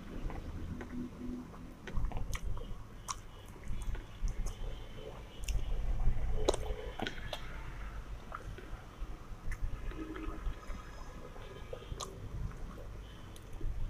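Close-up eating sounds: a person chewing mouthfuls of rice and curry, with fingers mixing the rice on the plate, and scattered sharp clicks of mouth and plate noise.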